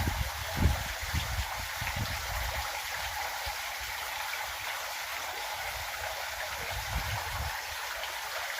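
Steady rush of running water, with low thumps in the first two seconds.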